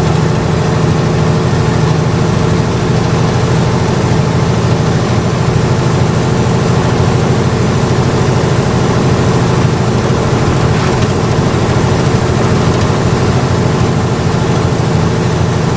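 Mack truck's diesel engine running steadily under load with road noise, heard from inside the cab as a constant low drone.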